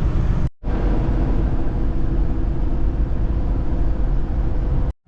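Steady low road and engine rumble inside a moving truck's cab. It cuts out completely for a moment about half a second in and again near the end.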